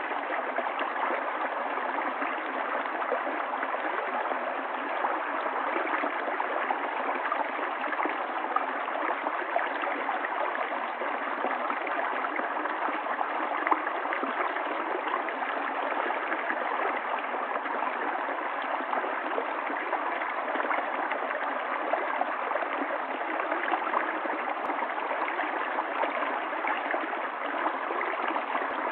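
Flowing water of a stream, a steady, unbroken rush. It is trimmed above and below, so it sounds somewhat narrow and muffled.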